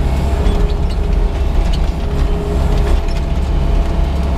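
Yanmar crawler excavator's diesel engine running steadily under a working load, with a few light clicks from the machine.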